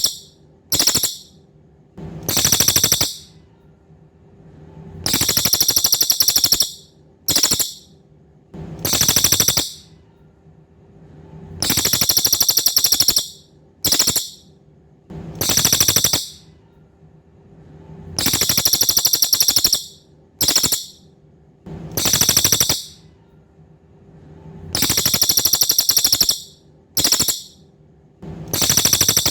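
Cililin songbird singing very high, rapid buzzing trills in a repeated phrase: a long trill, a brief burst and a shorter trill, returning about every six to seven seconds. A faint steady hum runs underneath.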